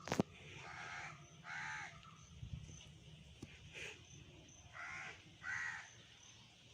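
Chickens calling: four short, harsh calls in two pairs, the first pair about a second in and the second about five seconds in. A single sharp knock comes right at the start.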